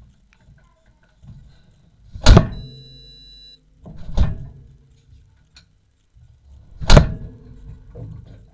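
Dishwasher door and racks clunking three times. A steady high tone of about a second follows the first clunk and cuts off suddenly.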